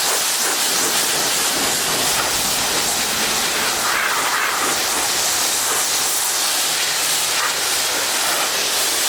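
Pressure washer spraying water onto a truck's body: a steady, loud hiss of spray.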